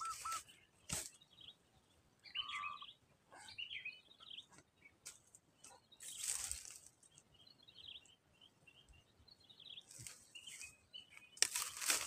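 Faint bird chirps and short calls at irregular intervals, with a brief lower note a couple of seconds in and two short rustles midway and near the end.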